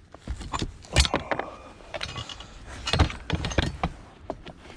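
Irregular metallic clanks, clicks and rattles as an electric recliner chair's motor and steel mechanism are handled and worked loose, with a sharp knock about a second in and another cluster around three seconds.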